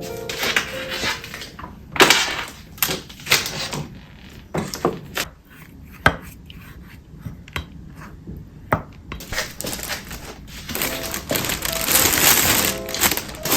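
Household clatter: an irregular run of clicks, knocks and clinks as objects are handled and set down, with a quieter stretch in the middle.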